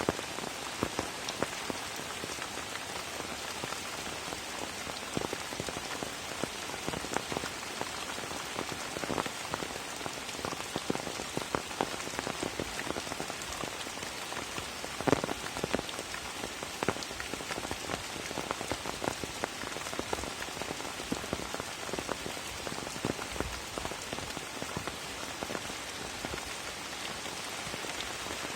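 Steady rain falling, an even hiss scattered with the sharp ticks of individual drops striking close by. One louder drop hits about halfway through.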